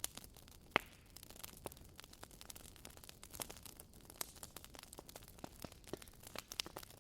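Wood fire crackling in a fireplace: irregular sharp pops and snaps over a soft hiss, with one louder pop about a second in.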